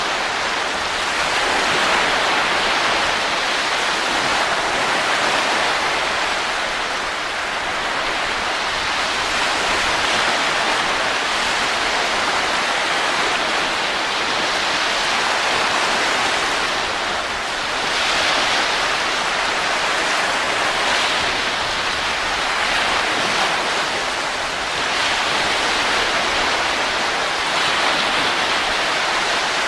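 Continuous rushing wind noise, slowly swelling and easing in level every several seconds.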